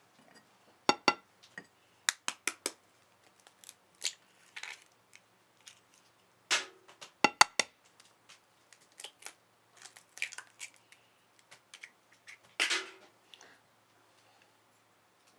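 Kitchen utensils knocking and clinking against a bowl while potato pancake batter is mixed: irregular sharp taps and clicks, a few ringing briefly.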